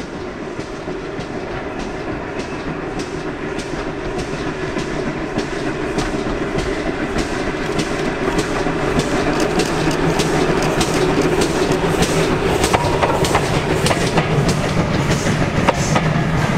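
A train running along the line, its wheels clicking over the rail joints, growing steadily louder as it approaches.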